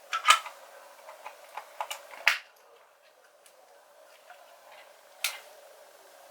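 Scattered sharp clicks and taps of small hard objects being handled, with the loudest a moment in, about two seconds in and about five seconds in.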